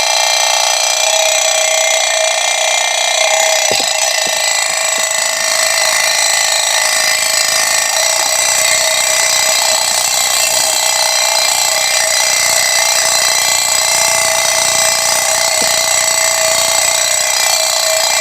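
Dense chorus of night insects in a rice paddy, a steady shrill ringing of many overlapping high tones that holds unchanged throughout.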